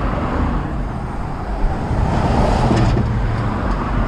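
Road traffic noise, with a vehicle passing close by around the middle and its sound swelling and then fading.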